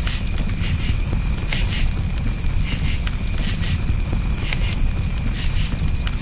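Crickets chirping over and over at a high, steady pitch, above the steady low rumble of a campfire, with scattered crackles and pops from the burning wood.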